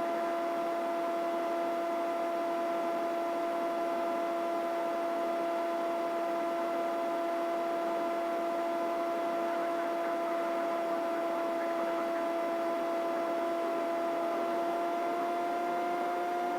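Steady in-flight helicopter noise heard through the aircraft intercom: an unchanging two-tone hum over a hiss.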